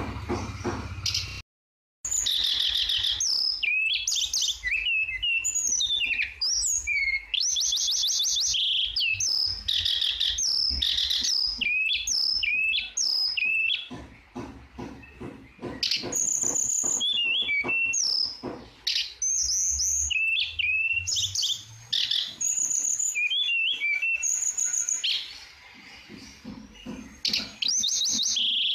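A tledekan songbird singing continuously in fast, varied phrases of sweeping whistles and rapid trills. The sound cuts out completely for a moment about two seconds in.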